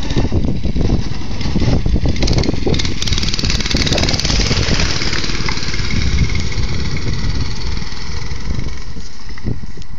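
Small engine of a Motovox mini bike running close to the microphone, rough and uneven for the first few seconds, then settling to a steadier sound.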